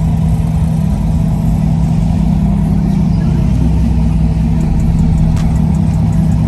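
Truck engine and road noise while driving, a steady low drone.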